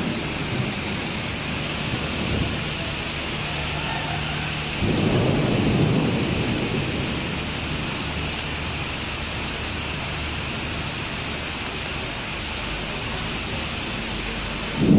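Heavy rain falling steadily in a thunderstorm. About five seconds in, a roll of thunder rumbles in suddenly and dies away over a couple of seconds.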